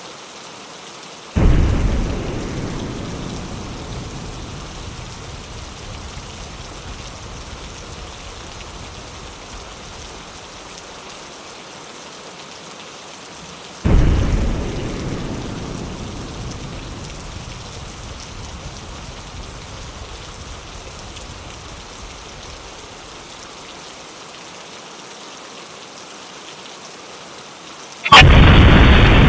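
Steady rain on a window with three claps of thunder, about a second in, near the middle and near the end. Each starts suddenly and dies away slowly over several seconds, and the last is the loudest.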